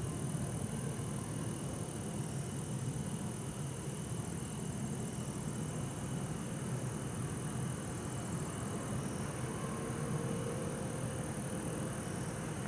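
Steady low rumble of distant city traffic and trains, with bell crickets (suzumushi) trilling steadily in a high pitch over it.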